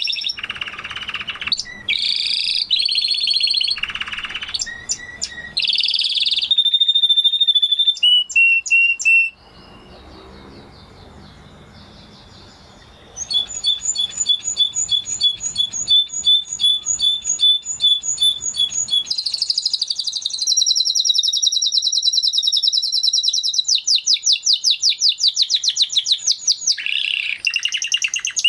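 Spanish Timbrado canary singing: a string of varied high phrases, a quieter lull about a third of the way in, then long rapid trills of repeated notes and a held, rolling phrase.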